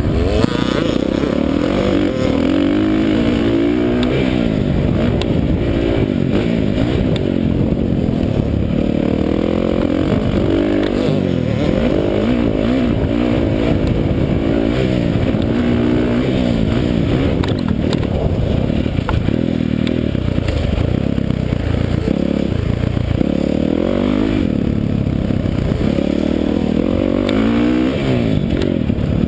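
Dirt bike engine being ridden hard, its pitch climbing and dropping again and again as the rider works the throttle and gears, every second or two. The sound is muffled, with little in the upper range.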